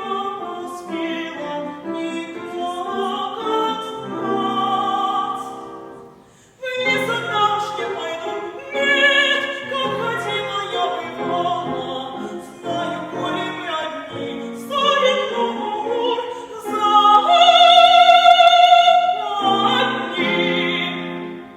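Female classical voice singing in operatic style with vibrato over instrumental accompaniment. There is a brief break about six seconds in, a long loud high note near the end, and the song finishes just before the end.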